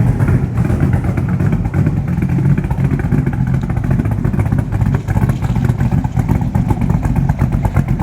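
Superformance FIA Continuation Cobra's V8 engine running steadily at idle with a rapid, even exhaust pulse.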